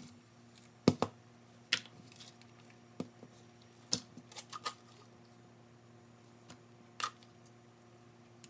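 A few light, scattered clicks and taps of food and utensils being handled in a bowl, over a faint steady hum.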